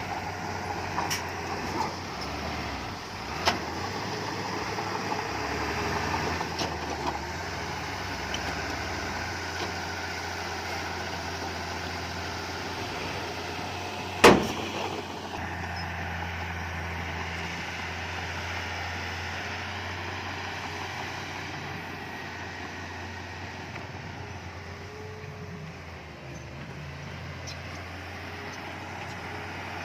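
Heavy earthmoving machinery running steadily, with a few light knocks and one sharp, loud bang about halfway through.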